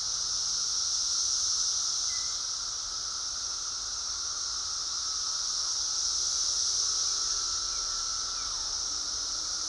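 Periodical cicadas chorusing: a steady, unbroken high buzz with a fainter lower hum beneath it, swelling and easing slightly.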